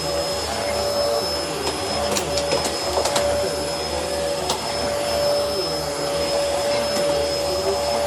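Bissell Helix upright vacuum cleaner running steadily, its motor giving a constant hum with a high whine, with a few sharp clicks two to three seconds in and again about halfway through.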